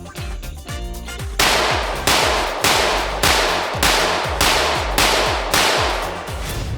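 A 9mm ported Glock 17-pattern pistol with a Lone Wolf Alphawolf LR01C slide firing about nine shots in a steady string, roughly two a second, starting about a second and a half in, over background music with a beat.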